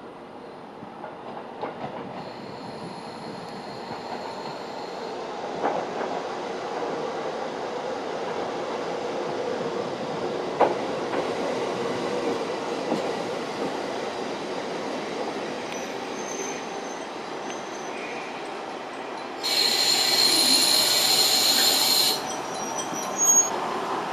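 JR Hokkaido KiHa 40 diesel railcar running along the track, its noise building gradually, with a few sharp clicks over the rails. Near the end a loud, high-pitched screech lasts nearly three seconds, typical of wheels squealing on a curve.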